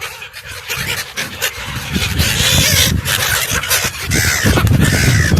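Gulls calling over a steady noisy background, with wind rumbling on the microphone in the last second or so.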